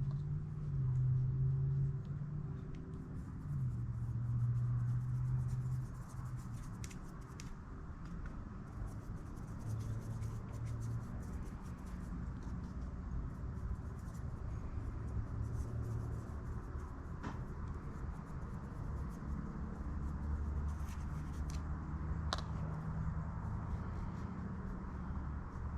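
Quiet hand work on a brake pedal assembly: light rubbing, scraping and small clicks as lithium grease is worked into the bushings and the pedal parts are handled. Under it runs a low hum that changes pitch every few seconds.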